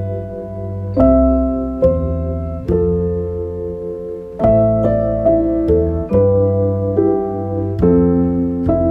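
Soft solo piano music, slow chords struck about once a second and left to ring.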